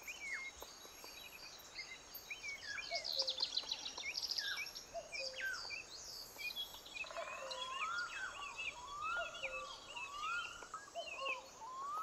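Quiet mixed birdsong: several birds chirping and whistling with short sweeping notes. In the second half, one bird repeats a short rising whistle about once a second.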